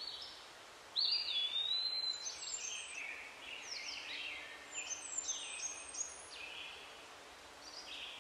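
Birds chirping: several short whistled phrases of rising, falling and stepping notes, starting about a second in and dying away after about six seconds.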